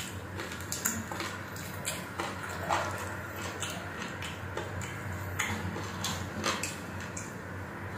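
Close-up mouth sounds of a person eating chicken adobo by hand: chewing with irregular wet smacks and clicks.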